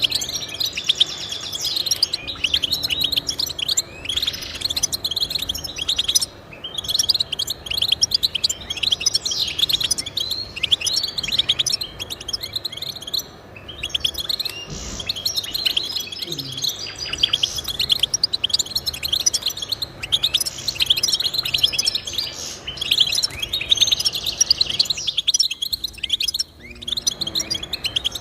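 Goldfinch singing: a fast, continuous twittering song of high chirps and trills, broken by brief pauses, with a longer pause near the end.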